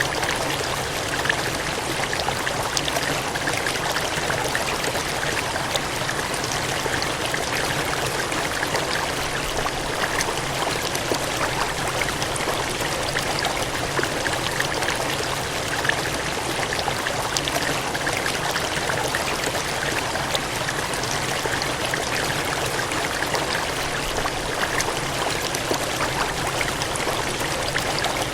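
Gushing, cascading water: a steady rushing stream with fine splashing.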